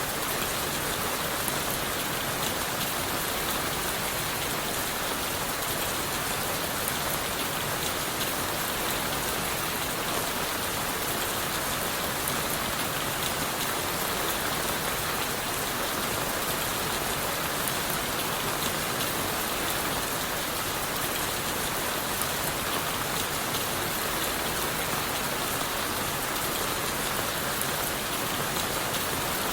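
Steady rain falling on forest leaves and wood: an even, dense hiss with a fine patter of drops.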